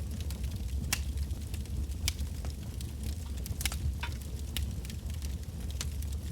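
Wood bonfire burning, the logs giving off irregular sharp crackles and pops, a few seconds apart or closer, over a steady low rumble.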